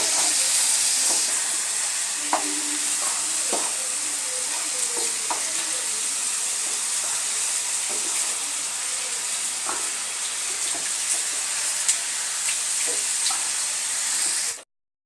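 Chicken tikka pieces sizzling in oil in a shallow pan: a steady frying hiss, with scattered light clicks and scrapes as the pieces are turned with a utensil. The sound cuts off suddenly near the end.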